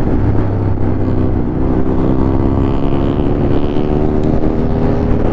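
Ducati Monster 821's L-twin engine running as the bike is ridden, its pitch climbing gradually under acceleration from about two seconds in.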